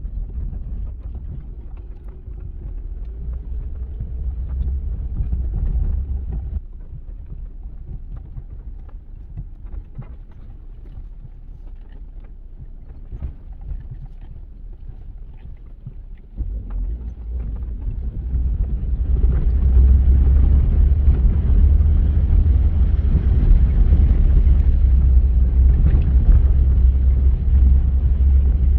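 Wind buffeting the microphone in gusts: a deep, uneven rumble with a hiss above it. It eases off about a third of the way in and comes back stronger after the middle.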